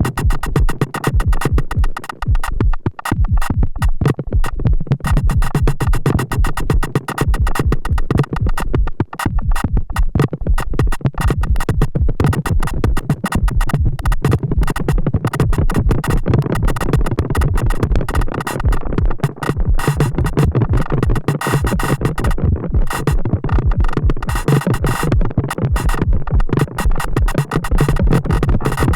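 Erica Synths Perkons HD-01 drum synthesizer playing a dense, fast electronic drum pattern of synthesized percussion hits, with a heavy low end.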